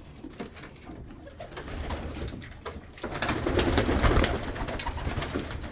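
A loft full of domestic pigeons cooing, swelling louder about three seconds in, with many scattered sharp clicks among the birds. The birds are agitated because it is feed time.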